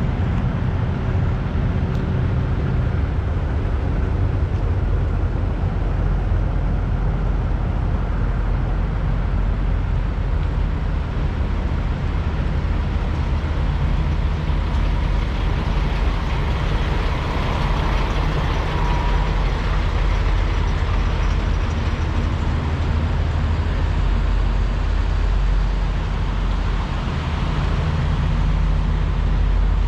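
Steady low rumble of idling semi-truck diesel engines.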